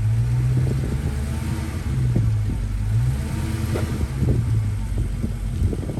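Supercharged 6.2-litre HEMI V8 of a Dodge Challenger SRT Hellcat Redeye running at low speed, its low rumble swelling about three times as light throttle is applied, with a few short knocks over it.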